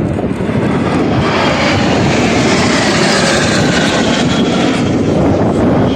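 Fixed-wing aircraft passing low and loud, its engine noise swelling about a second in and easing near the end, with faint gliding tones in the noise.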